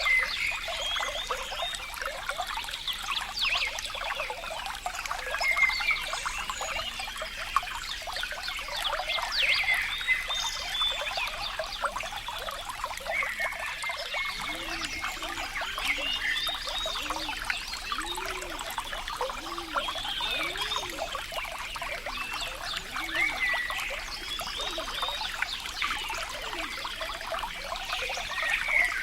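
Water trickling steadily, with birds chirping throughout. About halfway through, a low animal call repeats roughly once a second for several seconds.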